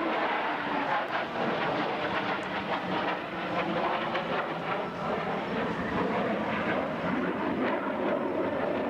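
Jet engine running loudly and steadily, a dense rushing noise with irregular crackle through it.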